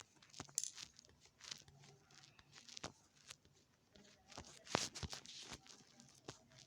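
Faint scattered clicks, taps and rustling handling noise in a small room, with one sharper tap a little past the middle.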